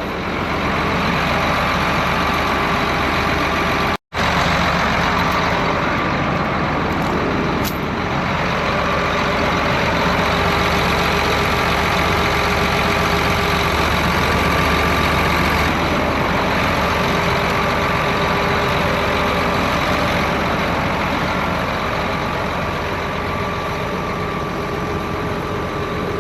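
Big John Deere farm tractor's diesel engine running steadily under load. The sound drops out for an instant about four seconds in.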